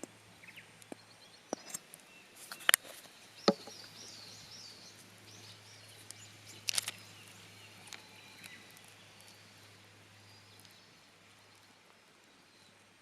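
A few sharp clicks and knocks, the loudest about three and a half seconds and seven seconds in, with a short run of high bird chirps between them, over a faint steady low hum.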